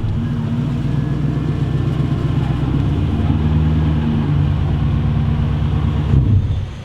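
Lexus 1UZ V8 engine in a Mazda B2200 mini truck, running steadily under way with a deep, even engine note that shifts slightly in pitch partway through and cuts off suddenly near the end.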